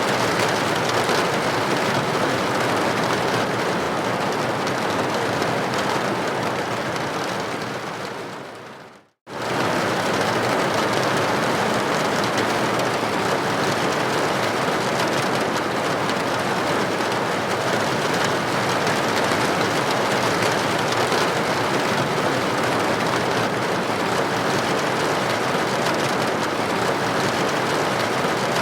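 Steady rain with droplets hitting a window pane. About seven seconds in it fades out to a moment of silence, then cuts straight back in at full level.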